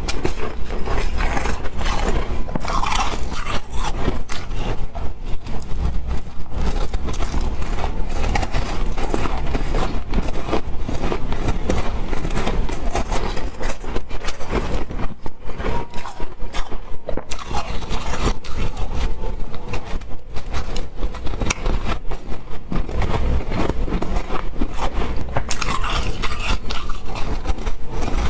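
Close-miked crunching and chewing of ice: a dense, irregular run of crisp bites and crunches that goes on without a break.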